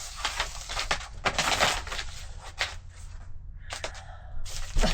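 Black tar paper crinkling and rustling as it is handled and pressed into place on a wall, broken by sharp clicks and knocks.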